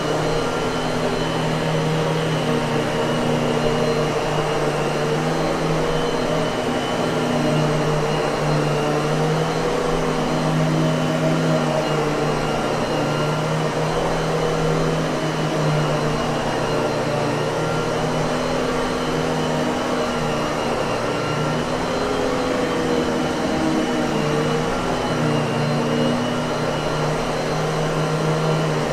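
Miele vacuum cleaner running steadily: a continuous motor hum with a higher whine, its pitch wavering slightly every few seconds.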